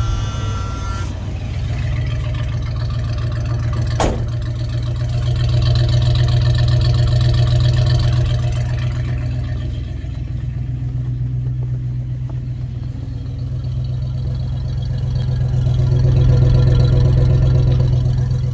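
1976 Ford F-150 engine running cold, just after starting with a primed fuel pump. It idles steadily, and its speed and loudness swell twice, about six seconds in and again near the end. A single sharp click sounds about four seconds in.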